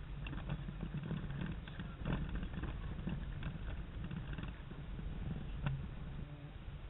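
Wind buffeting the microphone aboard a sailing yacht under way, a rough low rumble, with scattered clicks and knocks from the boat's gear; the sharpest knock comes about five and a half seconds in.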